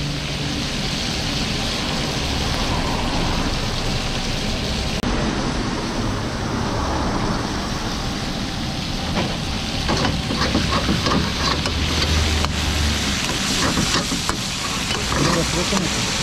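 Chunks of meat sizzling in hot oil in a large iron wok over a gas burner, a steady frying hiss. A few light clicks come about ten seconds in.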